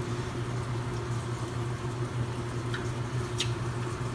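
Steady low hum, with two short light clicks about two and three and a half seconds in.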